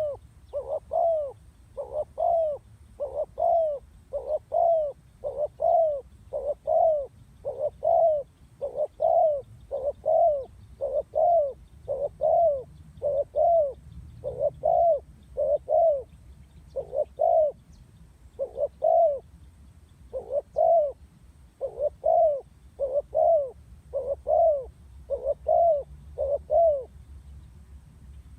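Female spotted dove cooing: a long, regular series of short coos, a little more than one a second, that stops near the end.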